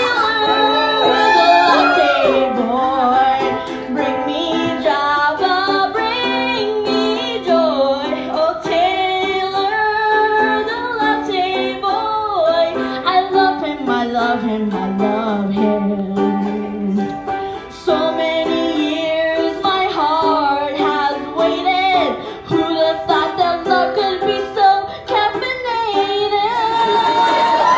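Live singing of a comic song over plucked string accompaniment.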